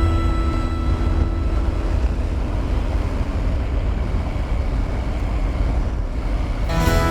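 Steady wind rush and low rumble from a motorcycle on the move, heard through the action camera's microphone. The bike is a Triumph Tiger 900 GT Pro.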